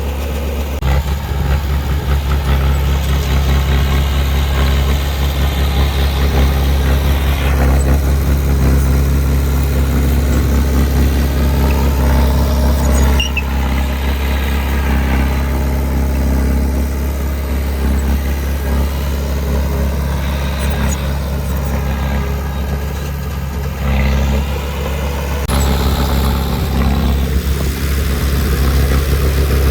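Heavy earthmoving machine's diesel engine running steadily with a deep hum, the machine working under varying load.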